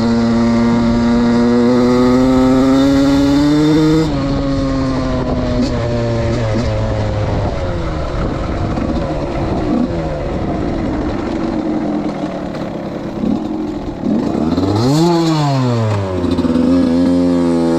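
Suzuki RM85's two-stroke single-cylinder engine under riding. It is held at high revs for the first four seconds, then drops off and runs unevenly at lower revs. About fifteen seconds in it gives a quick rev up and down, then pulls steadily again, rising near the end.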